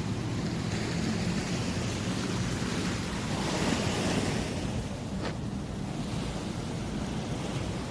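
Sea surf washing in, with a wave's wash swelling in the middle, and wind buffeting the microphone. A brief tick is heard a little past the middle.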